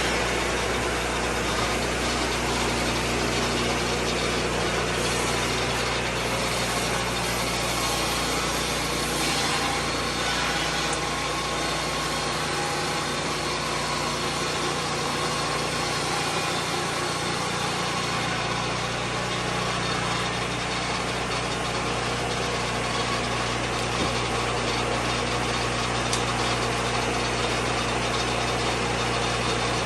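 Lucas Mill 10-30 swing-blade sawmill running steadily, its engine note shifting between about ten and eighteen seconds in before settling back.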